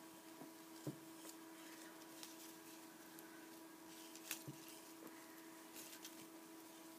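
Near silence: small-room tone with a faint steady hum, broken by a few soft handling clicks and rustles, the clearest about a second in and about four seconds in.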